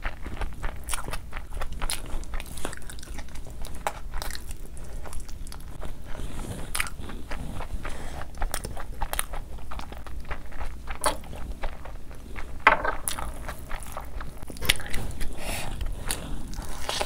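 A person chewing and biting food close to the microphone: irregular crunchy clicks throughout, with one louder crunch about twelve seconds in.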